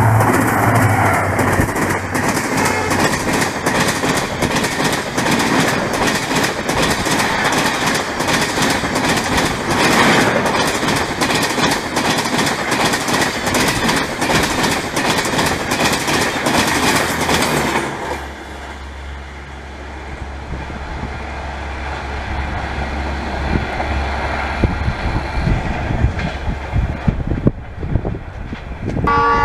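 A passenger train running through at speed behind a WDP4 diesel locomotive, its red coaches clattering past in a rapid clickety-clack of wheels over rail joints. About 18 seconds in the clatter falls away suddenly, leaving a quieter low rumble that slowly grows, with a few sharp knocks near the end.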